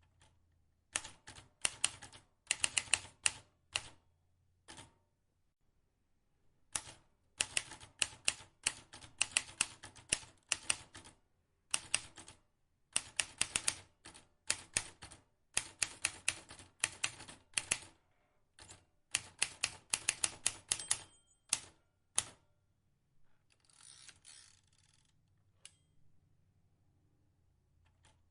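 Vintage manual typewriter keys being struck in quick runs of clicks, with short pauses between the runs. About three-quarters of the way through there is a softer rasping rush lasting a second or two.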